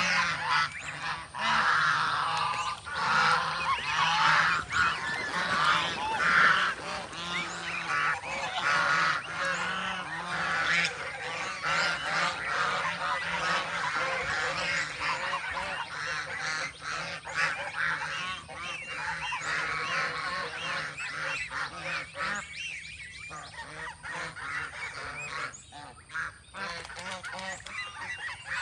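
A flock of geese honking, many calls overlapping at once, thinning out after about twenty seconds.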